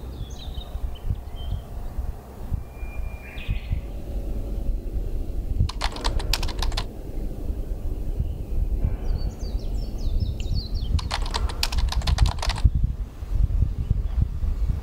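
Small birds chirping outdoors, with two rapid rattling bursts about five seconds apart and steady low clicking and rustling throughout.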